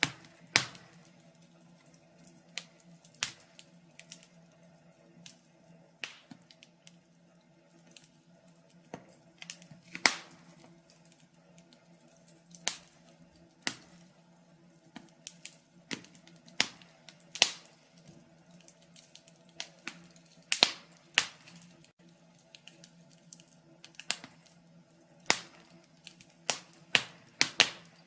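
Log fire crackling: irregular sharp pops and snaps, roughly one or two a second, some much louder than the rest, over a faint steady low hum.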